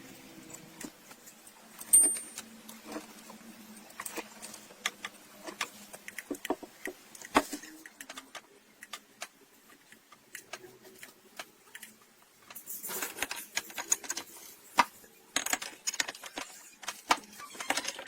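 Irregular metallic clicks and clinks of tools and parts being handled, with one sharp ringing clink about two seconds in and a busier run of clatter from about thirteen seconds.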